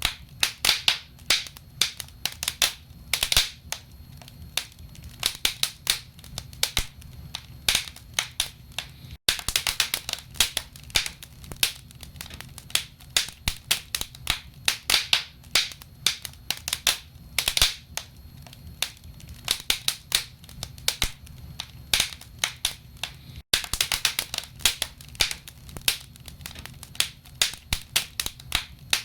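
Wood fire burning in a fireplace, crackling with frequent irregular sharp pops and snaps over a low steady rumble. The sound drops out for an instant twice.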